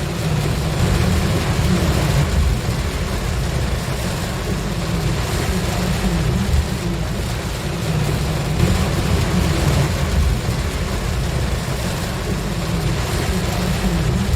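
A vehicle driving in the rain: a steady low rumble of road and engine under an even hiss of rain and spray.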